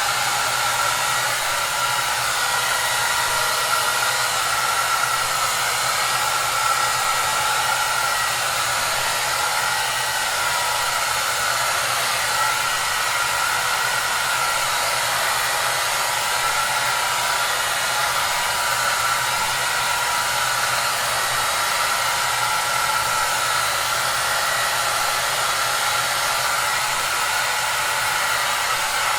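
Hair dryer running steadily: a loud, even rush of blown air with a faint whine in it and a low hum underneath.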